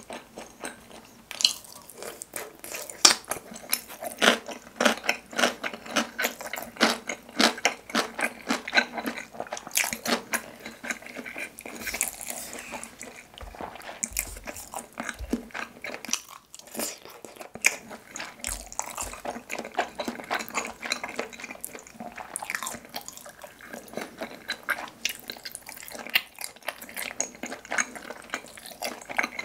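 Close-miked wet, sticky chewing of spicy tteokbokki, dense irregular mouth clicks and squelches of chewy rice cakes in thick sauce.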